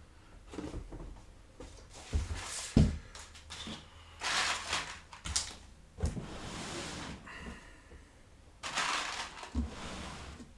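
A computer power supply being handled and fitted into a PC case: a series of knocks and clunks against the case, the loudest about three seconds in, with rustling and scraping in between.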